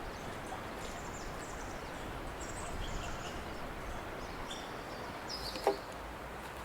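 Outdoor background noise with scattered short bird chirps, and a single sharp knock near the end.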